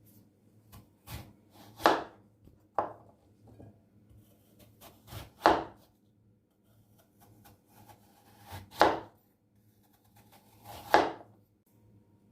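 Knife cutting food on a wooden cutting board: about five firm cuts a couple of seconds apart, each ending in a sharp knock on the board.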